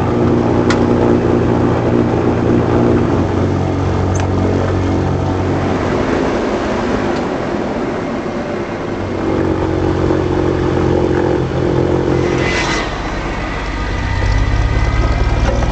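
The Goodyear blimp's two piston engines and propellers running steadily, a droning hum described as sounding like a lawnmower.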